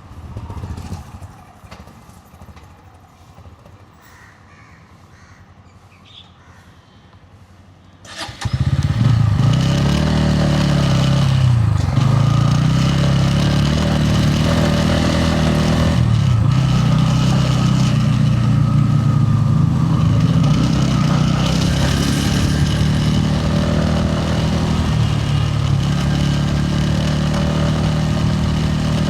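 Faint street background, then about eight seconds in the Bajaj Pulsar N160's single-cylinder engine comes in suddenly and loud, its pitch rising and falling as the bike accelerates and shifts gears.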